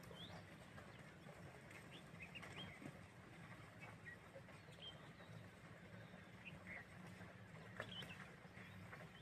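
Near silence with faint, scattered short bird chirps over a low steady hum.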